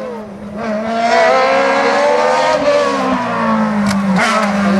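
Hillclimb race car's engine running hard at high revs as the car comes up the course, growing loud about a second in, its pitch easing up and dipping with the throttle and gears.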